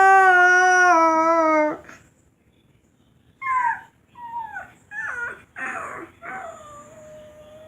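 A person imitating wolf sounds: a long, steady, loud howl that cuts off about two seconds in. After a short silence come several quieter, short whimpering squeaks that bend in pitch, the last one trailing off into a thin held note.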